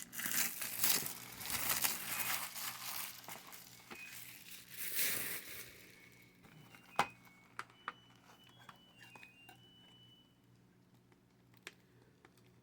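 Plastic shrink wrap crinkling and tearing as it is pulled off a VHS clamshell case, for about six seconds. After that come a few faint clicks and short faint high beeps.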